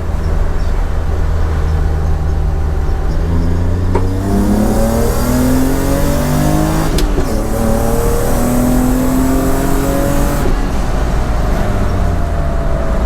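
BMW M50B25 inline-six breathing through Schmiedmann stainless headers and a 3-inch stainless exhaust, pulling hard under full throttle. The pitch climbs from about three seconds in, breaks briefly about seven seconds in, climbs again, then eases off and settles lower near the end.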